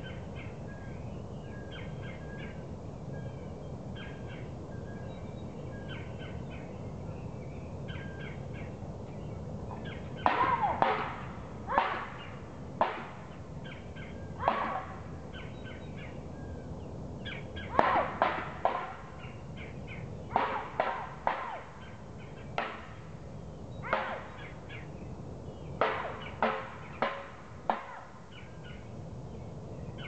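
Birds around a nest tree: soft, high chattering song for the first ten seconds or so, then a run of loud, sharp, irregularly spaced notes, often one every half second to a second, over a steady low background rumble.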